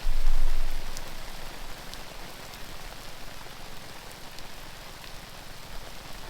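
Steady rain falling, an even hiss with occasional single drops ticking close by. A low rumble at the very start is the loudest moment and fades over about a second.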